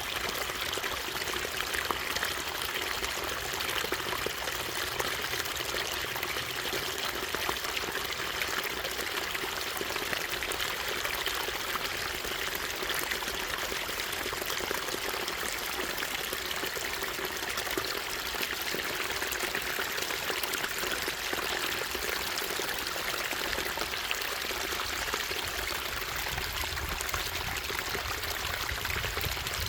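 Running water of a small waterfall or stream, splashing and rushing steadily without a break.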